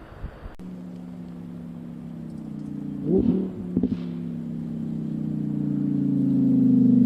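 Lamborghini Huracán Sterrato's V10 engine running at steady revs, cutting in abruptly about half a second in and growing steadily louder as the car approaches, its pitch dipping slightly near the end. Short louder bursts come about three and four seconds in.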